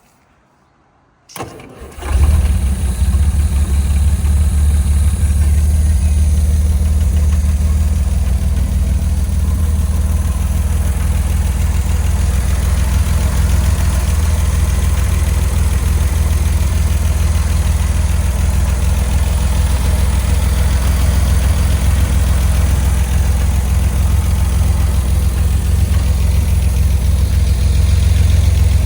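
Austin-Healey BJ7's straight-six engine starting: it turns over briefly, catches about two seconds in, then idles steadily.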